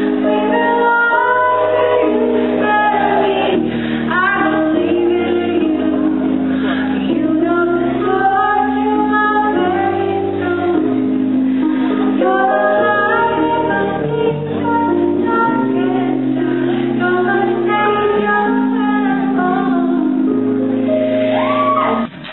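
Live pop music: a woman singing over sustained, slowly changing chords, with a brief abrupt cut near the end.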